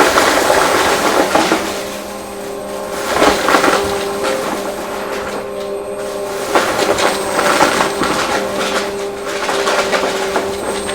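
Vacuum cleaner running with a steady motor whine while it picks up crunchy debris, which rattles and crackles through it in repeated surges as it is pushed back and forth.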